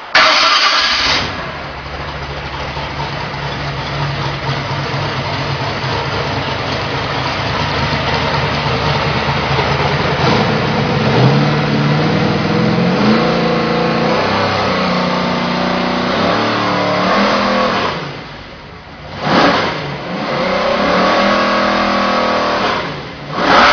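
1967 Mustang Eleanor's crate V8 catching with a loud burst at once, then settling into a steady idle. About halfway through it is revved, climbing in pitch in steps before dropping back, and near the end it takes two sharp throttle blips.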